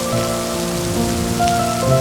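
Steady rain mixed with gentle music of held notes that change every half second or so.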